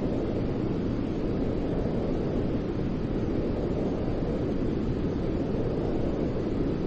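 Continuous white-noise track, a deep, even rushing sound with no rhythm or change, played to soothe a crying baby to sleep.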